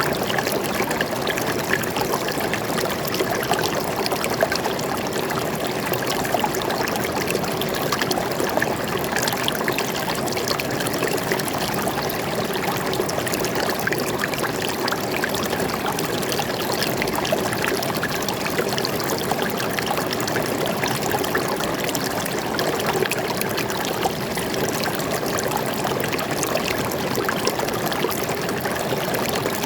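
Forest stream flowing steadily: an even rush of water with fine trickling.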